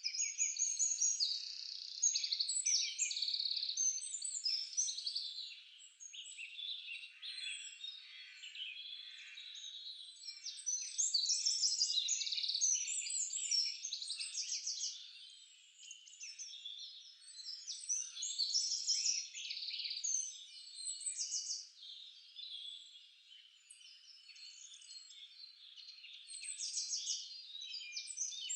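Several songbirds singing and calling at once: a dense chorus of short chirps, rapid trills and quick falling notes, some louder and some fainter, overlapping throughout.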